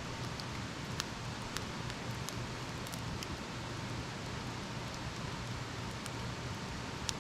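Campfire burning with a steady hiss and scattered sharp crackles and pops of the burning wood, a few in the first three seconds and a loud one near the end.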